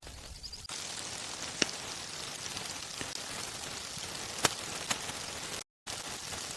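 Wood fire crackling: a steady hiss with a few sharp, loud pops.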